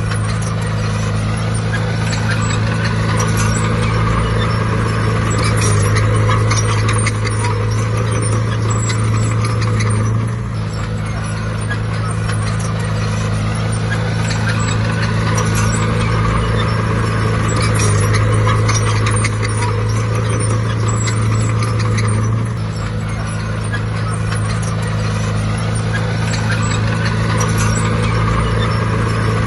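Bulldozer's diesel engine running hard under load with a steady clatter of metal, the engine note dropping and then rising again in a cycle about every twelve seconds.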